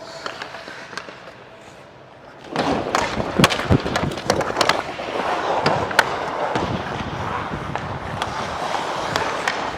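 Ice hockey skates carving and scraping across the ice, with sharp clacks of sticks and puck mixed in. It starts suddenly about two and a half seconds in and carries on loudly.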